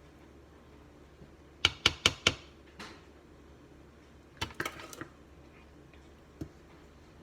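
Kitchen utensils knocking against metal cake pans: a quick run of about four sharp clicks, then another cluster about three seconds later and one lone tap near the end.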